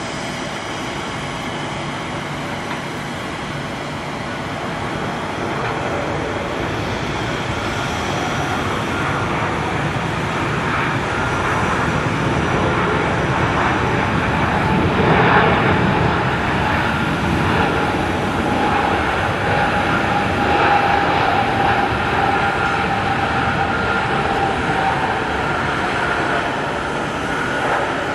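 Airbus A380's four Engine Alliance GP7200 turbofans on approach: steady jet-engine noise with a couple of whining tones. It grows louder over the first half, peaks about halfway through, and stays loud.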